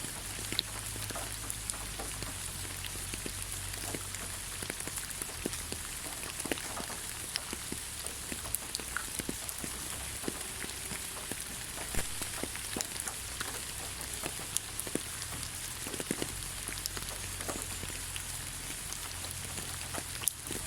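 Steady rain falling on the ground: a constant hiss with many scattered individual drops tapping.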